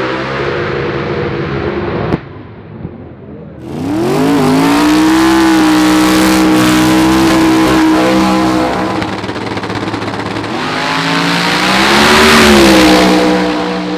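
A drag racing car's engine running. After a sudden cut about two seconds in, it revs up sharply and holds steady high revs for about five seconds, sags, then rises again before easing off near the end.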